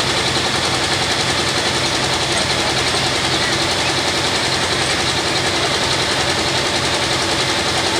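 Super farm class pulling tractor's modified diesel engine running hard at high revs, a loud, steady drone with no letup.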